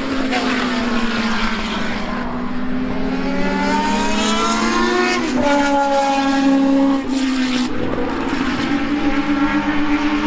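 Race car engines running at high revs, held steady for several seconds, with the pitch dipping and then jumping back up about halfway through.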